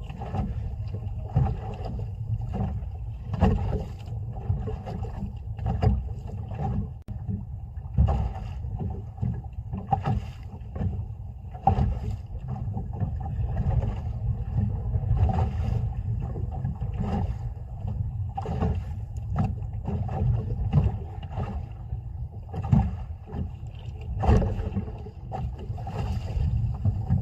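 Water slapping and knocking irregularly against the hull of a small boat at sea, over a steady low rumble.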